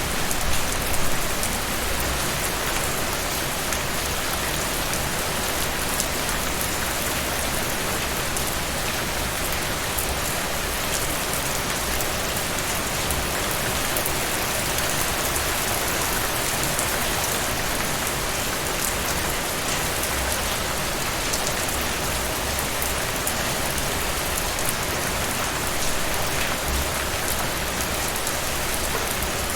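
Steady rain falling and pattering on a surface, an even hiss with fine drop ticks.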